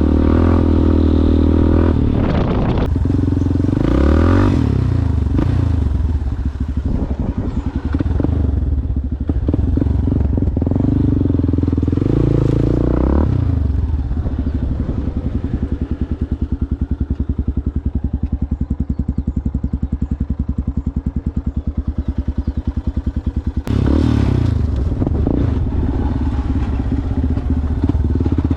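Yamaha Ténéré motorcycle with a Coyote aftermarket exhaust, ridden off-road. The engine revs up and drops back a few times. Through the middle it chugs at low revs with an even, pulsing exhaust beat, then opens up again near the end, with clatter from the rough ground.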